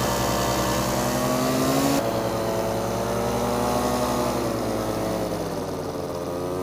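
Paramotor engine running through its repaired, welded exhaust. Its pitch climbs a little over the first two seconds, changes abruptly, then falls away over the last couple of seconds as the throttle comes back.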